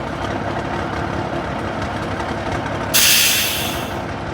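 Truck engine idling steadily, with a sudden sharp hiss about three seconds in that fades away over about a second.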